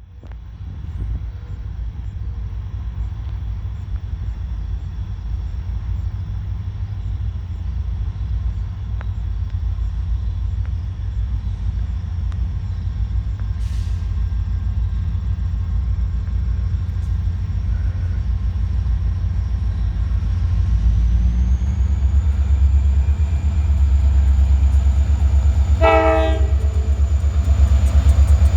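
Great Lakes Central Railroad train approaching, its low rumble growing steadily louder. Near the end the locomotive's horn gives one short toot.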